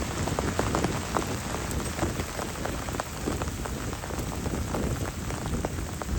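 Heavy rain falling steadily, with many separate drops striking close by over a constant low rumble.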